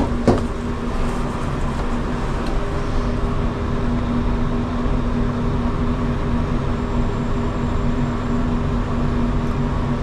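Steady machine hum with a fixed low tone and a rumble under it, with two sharp knocks right at the start.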